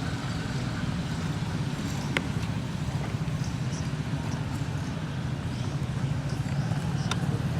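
Steady low rumble of a motor vehicle engine running, with a couple of faint clicks over it.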